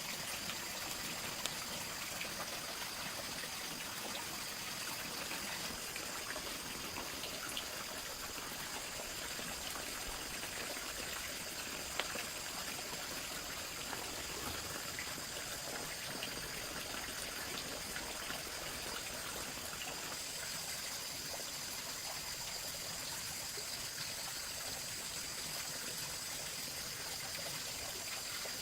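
Steady trickle of running water, with a constant high hiss above it and a few faint clicks.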